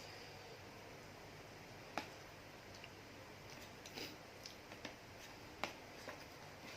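Quiet eating sounds: soft, squishy chewing with several sharp clicks of a utensil against a dish, the two loudest about two seconds in and again later on.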